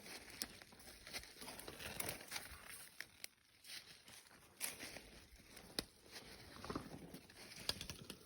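Footsteps crunching through dry fallen leaves on a forest floor barely dusted with snow: irregular crackling steps with occasional sharper crackles.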